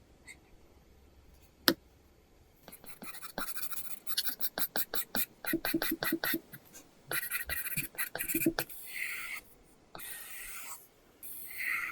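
Apple Pencil 2nd generation drawing on an iPad Pro screen fitted with a paper-texture film. There is a single sharp tap, then quick, short scratchy strokes at about five or six a second, then a few longer strokes.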